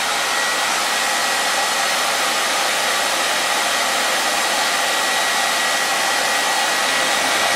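Handheld hair dryer running steadily: a dense rush of blown air with a thin, steady whistle on top.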